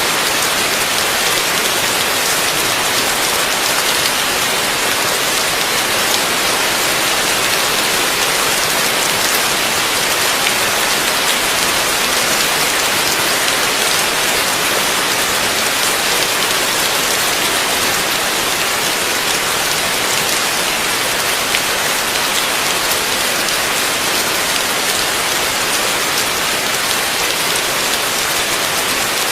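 Heavy rain falling steadily, a dense even hiss of drops hitting surfaces with fine patter throughout.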